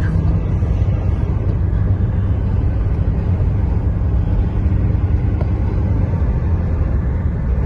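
Toyota car driving, heard from inside the cabin: a steady low rumble of engine and road noise.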